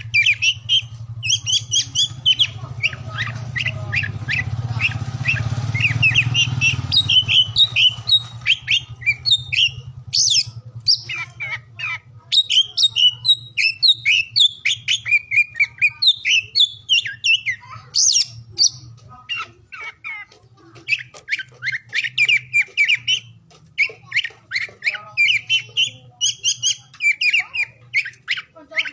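Oriental magpie-robin (kacer) singing a fast, varied run of sharp chirps and short whistles with few pauses, over a steady low hum.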